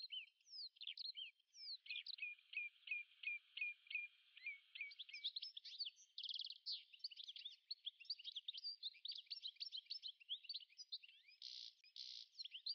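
Faint songbird chirping and trilling. It starts with a run of quick falling notes, about three a second, then turns to busier twittering with a few short buzzy trills, the last of them near the end.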